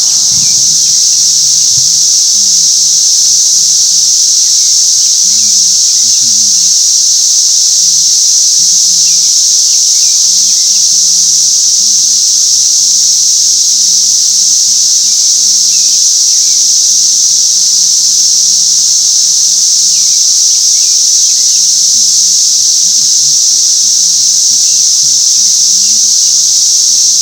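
A loud chorus of cicadas buzzing in one steady, unbroken high-pitched drone, loud enough to drown out a voice.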